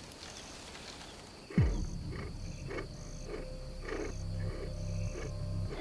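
Leopard's low rasping grunts, repeated about twice a second, starting suddenly after a second and a half of quiet.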